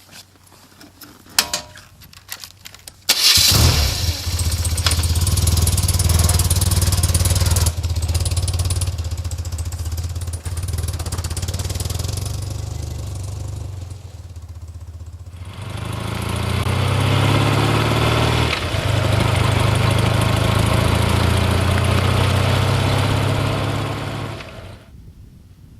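Motorcycle engine starting abruptly about three seconds in and running. Later it revs up with rising pitch and a brief break that sounds like a gear change, then dies away near the end.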